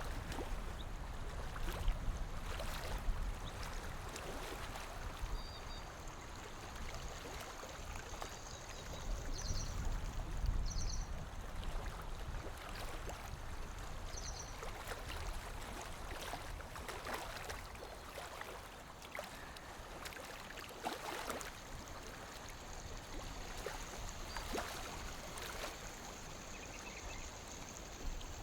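Small waves lapping against a lake shore, with irregular soft splashes and slaps of water.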